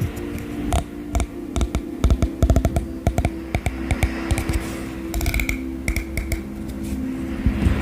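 Rapid, irregular tapping and clicking of fingers on a hard object, several taps a second, over a steady low hum.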